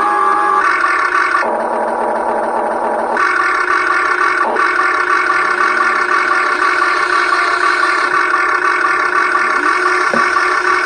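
Huina 1580 remote-control excavator's electric motors and gears whining steadily as it is worked. The tone changes as different movements start and stop, turning rougher for a second or two early on.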